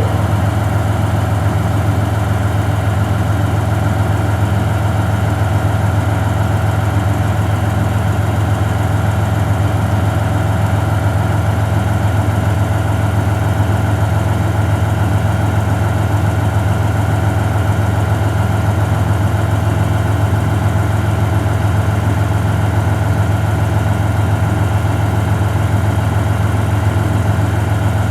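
The diesel engine of a KiHa 40 railcar idling steadily: a constant low hum that does not change.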